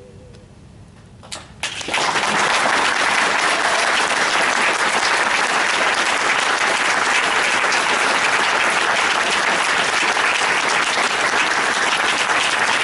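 A short hush with a couple of lone claps, then an audience breaks into dense, steady applause about two seconds in.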